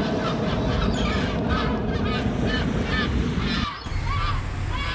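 Gulls calling over and over in short, arched cries, about two a second, over a steady low rumble that drops away abruptly just before the four-second mark.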